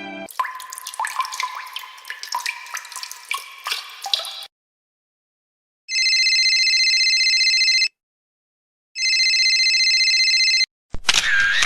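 Water dripping and plinking in quick irregular droplets for about four seconds, then a phone-like electronic ring sounding twice, each ring about two seconds long. A short new sound begins near the end.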